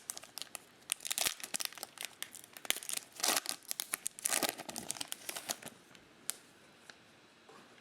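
Foil-wrapped trading card pack being torn open and its wrapper crinkled, a run of crackles and tearing with a few louder rips, dying away about six seconds in.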